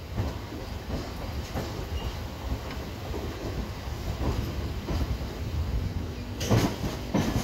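Passenger train coach wheels rumbling along the rails with irregular clicks, heard from aboard the moving train. Two loud clanks come near the end.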